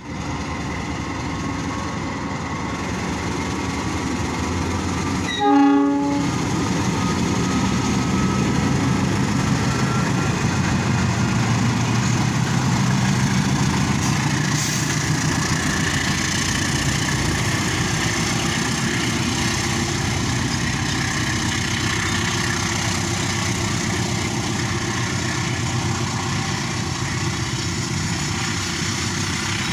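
Argo Wilis passenger train running with a steady rumble. A short horn blast sounds about five and a half seconds in and is the loudest moment.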